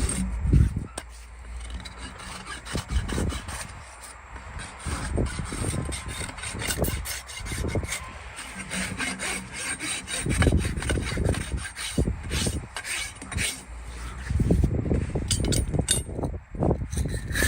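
A farrier's rasp filing a horse's hoof in irregular scraping strokes, with heavier low thuds about ten seconds in and again near the end.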